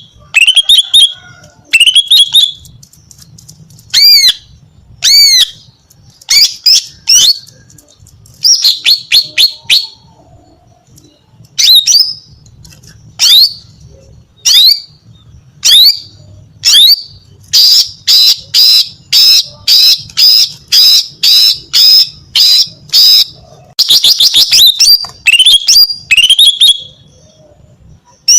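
Female green leafbird (cucak ijo) calling loudly in short, sharp chirps, the kind of calling used to draw males. Past the middle the calls come evenly at about two a second, and near the end they run together into a fast chattering series.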